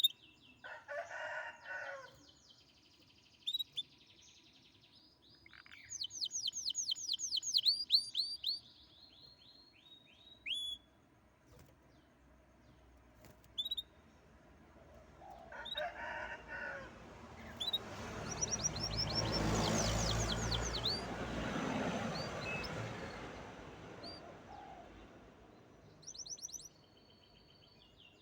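Canary singing in fast, high trills of rapidly repeated notes, with scattered single chirps between them. A rooster crows briefly twice in the background. About two-thirds of the way through, a broad rushing noise swells and fades over several seconds.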